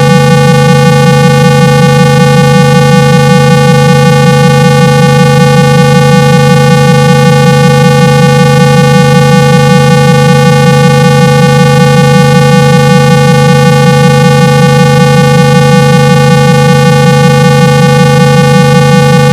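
Loud, steady, buzzy 165 Hz test tone with a slight regular pulse. It is played through a phone speaker to vibrate water out of it.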